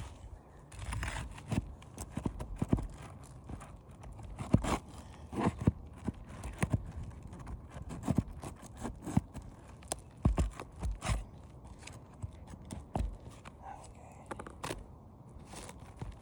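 Irregular knocks, taps and scrapes on an asphalt shingle roof, from footsteps and handling of shingles and tools.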